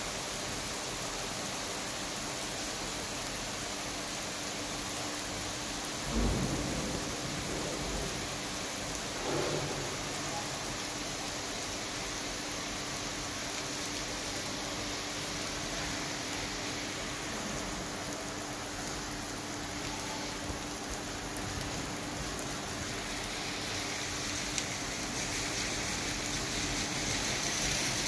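Steady rain falling on a wet asphalt road, an even hiss of drops. Two brief low thumps come about six and nine seconds in, and a higher hiss swells near the end.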